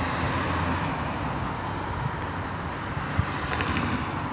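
Steady vehicle and road-traffic noise, a low even hum and rumble, with a few faint clicks about three and a half seconds in.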